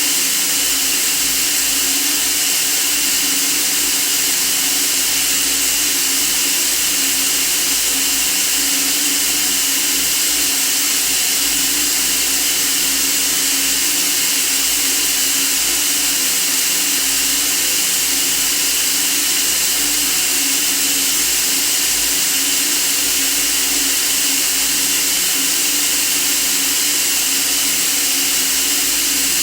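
Steady white noise for sleep: an unbroken, even hiss, strongest in the high range, with a faint low hum beneath it.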